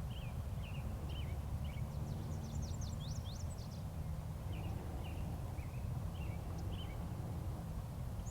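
Birds chirping in short repeated phrases, with a quick run of high, sweeping notes about two to three seconds in, over a steady low rumble.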